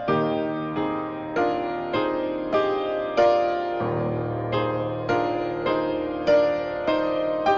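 Solo piano playing a slow, gentle piece, notes struck about twice a second over sustained chords.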